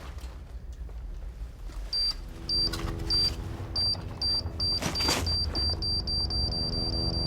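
High-pitched electronic beeping that starts about two seconds in at about two beeps a second and speeds up to a rapid pulse, over a low steady drone. A brief whoosh comes about five seconds in.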